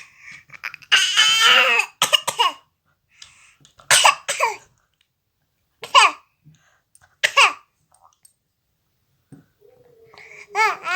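Baby making a string of short cough-like sounds, one every second or two, the first and loudest about a second in, and a pitched babbling squeal near the end.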